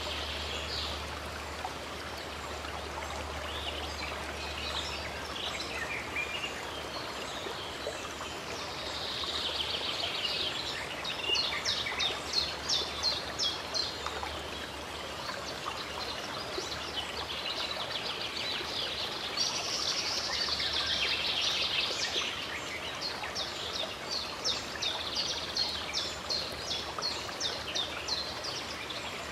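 A stream of running water flowing steadily, with small birds singing and chirping over it in quick runs of short repeated notes.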